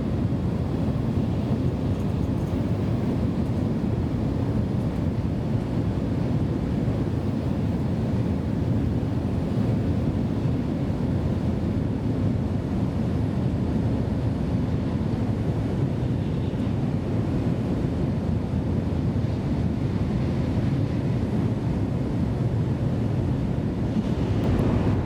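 Steady low rumble and rushing noise of an N700S Shinkansen running along the line, heard inside the passenger car.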